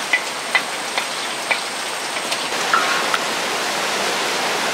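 Steady hiss of heavy rain. Over it come a few sharp taps of a metal spatula against a clay bowl in the first second and a half, as onions are scraped into the pot, then a short scrape about three seconds in.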